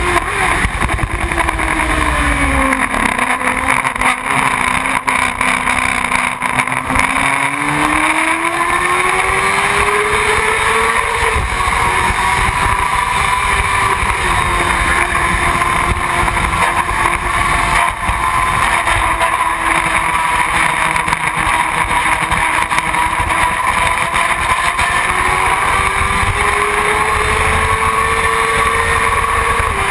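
Motorcycle engine running under way: its pitch drops as it slows a few seconds in, rises again around ten seconds, holds fairly steady, then climbs near the end.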